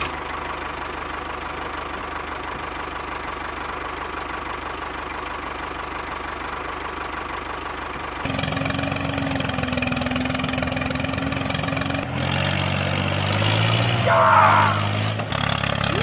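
Tractor engine running steadily. The sound shifts to a louder, more tonal running note about eight seconds in and changes again about twelve seconds in, with a brief squeaky chirp near the end.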